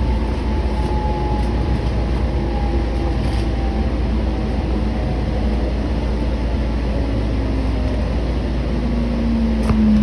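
Passenger train running, heard from inside the car: a steady low rumble with a faint motor whine that slowly falls in pitch, and a brief click near the end.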